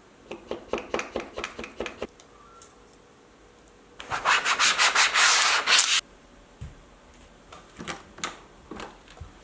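Quick back-and-forth rubbing strokes on a hard surface, like sanding or scrubbing. About eight strokes come in the first two seconds, then a louder, denser run of strokes lasts about two seconds, and a few lighter strokes follow near the end.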